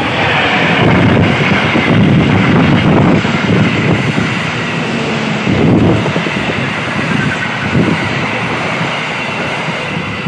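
A passenger train passing close by at speed: the CC 201 diesel locomotive going by at the start, then a long string of coaches rolling past with a steady loud wheel-on-rail rumble and rush. The sound fades slightly near the end as the last car passes.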